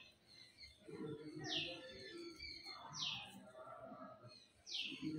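A bird calling faintly three times, each call a short high note that falls in pitch, about a second and a half apart.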